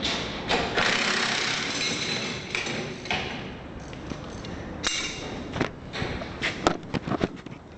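Metal tools and suspension parts knocking and clanking as a helper spring kit is fitted under a pickup truck, with several sharp knocks close together near the end. A steady hissing noise fills the first few seconds.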